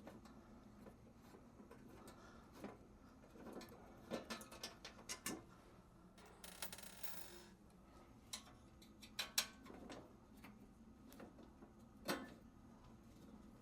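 Faint, scattered clicks and ticks of a tool working the screws out of an espresso machine's metal side panel, with a short scraping rasp a little past halfway.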